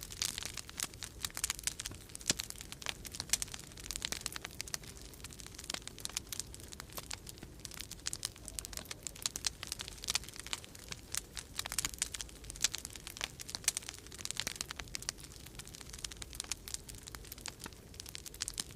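Wood fire crackling in a fireplace: dense small crackles and pops that come in brighter flurries every second or two, over a low steady rumble of winter storm wind.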